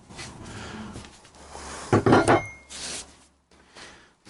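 Wooden knocks and scraping from particle boards being handled, with a quick cluster of sharp knocks about two seconds in and a short squeak right after.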